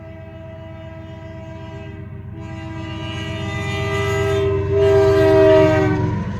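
BNSF diesel freight locomotive's air horn sounding for a grade crossing, growing louder as the train approaches: a long multi-note blast, a brief break about four and a half seconds in, then a second, loudest blast that cuts off near the end. The rumble of the diesel engines runs underneath.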